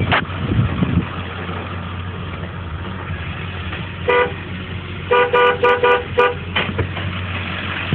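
Truck horn honking: one short toot about four seconds in, then a rapid series of about five short toots a second later.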